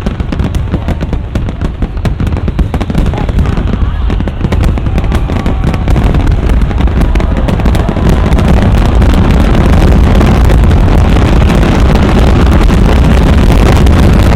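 Large aerial fireworks display going off in a dense, continuous barrage of bangs and crackles. It builds louder through the first half and holds at its loudest from about halfway on.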